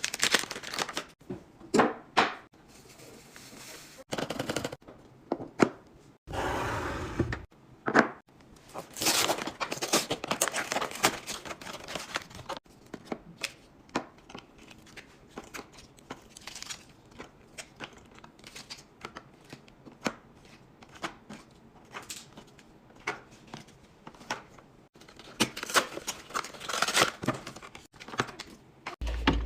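Food packaging and storage containers being handled while restocking a pantry: a run of clicks, taps and rattles with some crinkling, and a longer rustle about six seconds in.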